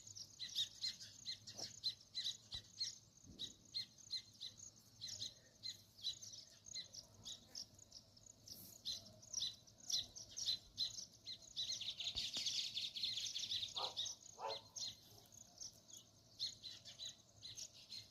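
Sparrows chirping: a rapid run of short, high chirps, thickening into continuous chatter about twelve seconds in, with two short lower notes just after.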